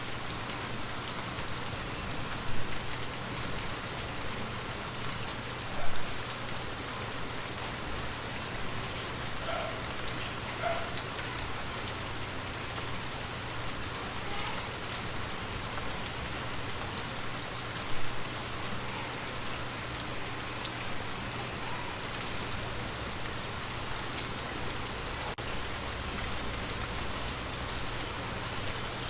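Steady rain falling, with three louder single taps standing out: two in the first few seconds and one past the middle.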